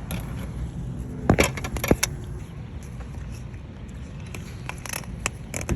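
A few sharp metallic clicks and clinks: a cluster of several about a second in and a few more near the end, over a steady low outdoor rumble.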